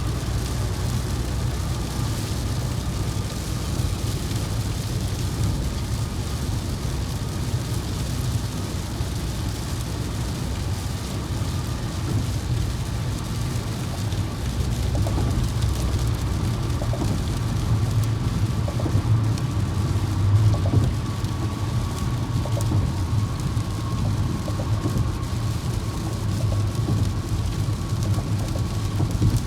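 Steady engine and road rumble from a moving vehicle heard from the cabin, with rain hitting the vehicle, under a faint steady whine.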